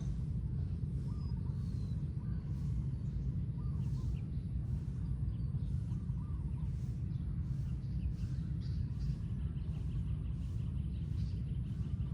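Short bird calls repeated every second or two over a steady low rumble, with a rapid ticking call near the end.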